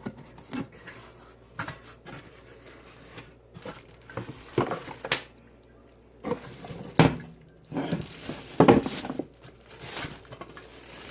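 Handling noise from a stainless steel French press being unpacked: irregular knocks, clunks and light clatter, with a few louder clunks past halfway.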